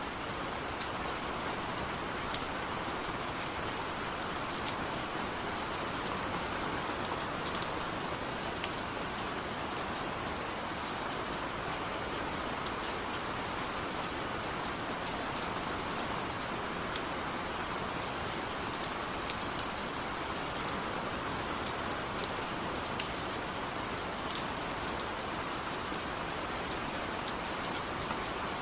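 Steady rain falling, an even hiss with many scattered sharp taps of single drops.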